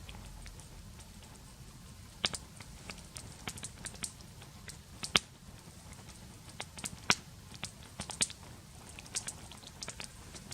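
Wood campfire crackling: sharp, irregular pops and snaps over a low steady hiss.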